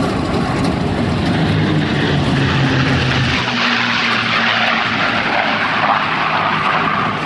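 P-51 Mustangs making a pass, their V-12 piston engines running at power. The engine note drops in pitch about three and a half seconds in as they go by, leaving a rushing noise.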